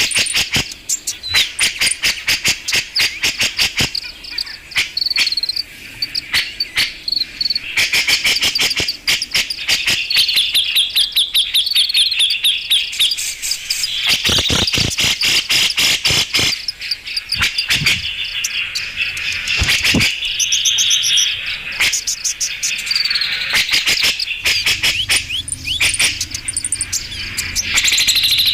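Grey-cheeked bulbul (cucak jenggot) calling continuously: rapid chattering notes and short high trills, repeated over and over.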